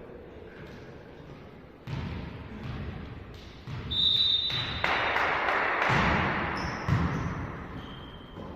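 Indoor volleyball play: the ball being struck and thudding several times, with a short, high whistle blast about four seconds in.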